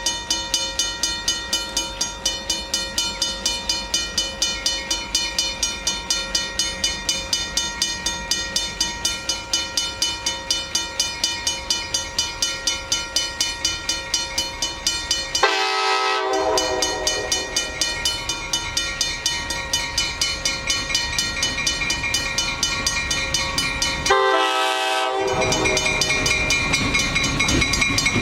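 Passenger train locomotive running with a fast, even pulsing rhythm and steady horn-like tones. Twice the sound changes suddenly and the tones fall in pitch.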